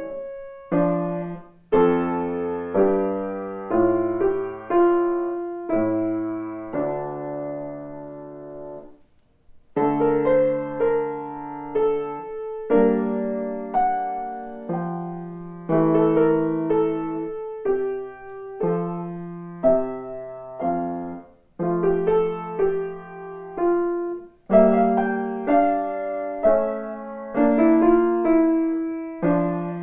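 Solo piano playing a slow classical piece in chords and melody, each note decaying after it is struck, with a brief pause about nine seconds in.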